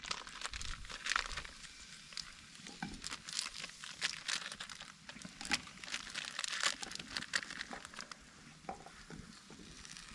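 Food packaging being handled and crinkled: irregular crackling and rustling with scattered sharp ticks.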